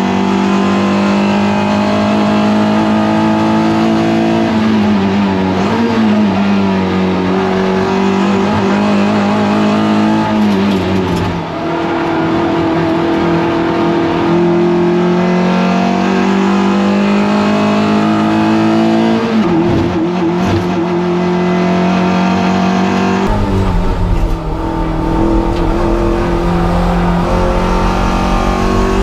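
Toyota MR2 race car engine held at high revs at racing speed, its pitch dipping briefly a few times as the driver lifts or changes gear. About 23 seconds in, the sound changes abruptly to a deeper, rumblier engine note.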